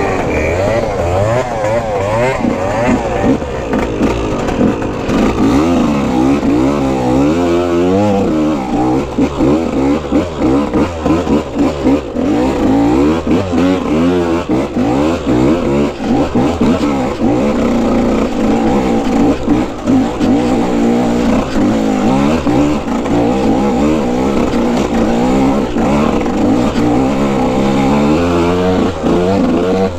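Dirt bike engine revving hard, its pitch rising and falling over and over as the throttle is opened and closed.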